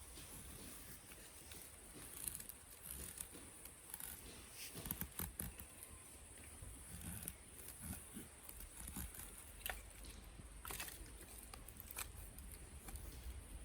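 Scattered light clicks, taps and rustles, a few sharper ones around the middle, over a faint steady high hiss.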